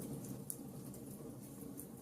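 Wood fire crackling in a fireplace: scattered small pops over a steady low rumble of the flames, with one sharper pop about half a second in.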